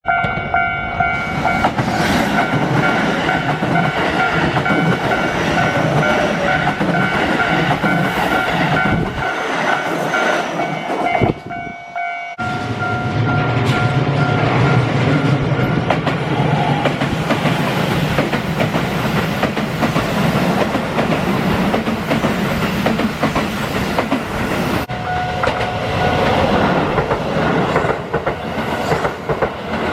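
Keihan electric trains passing over a level crossing: wheels clacking over the rail joints and a steady rumble, with the crossing's warning bell ringing over them. There is a short break about 12 seconds in, after which another train passes with a heavier rumble.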